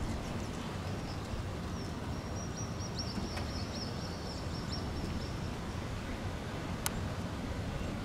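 A bird chirping rapidly in a high, repeated run from about two to five seconds in, over a steady low outdoor rumble; a single sharp click near the end.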